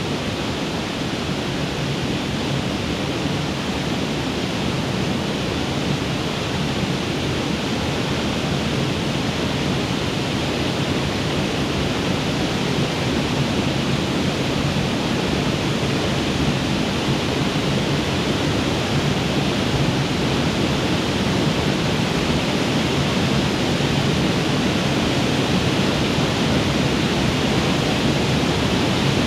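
Waterfall rushing steadily, a constant roar of falling water that grows slightly louder over the stretch.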